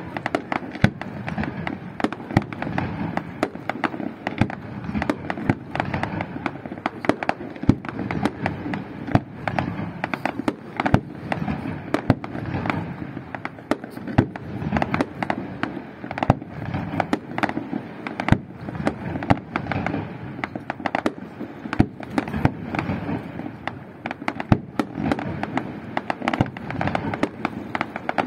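Fireworks display: a dense, unbroken run of bangs from shell launches and bursts, with crackling, several to a second.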